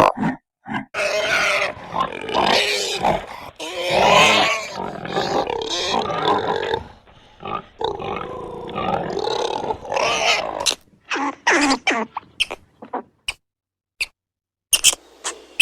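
Animal calls: a long stretch of dense, loud calls, then a run of short separate calls with brief silences between them.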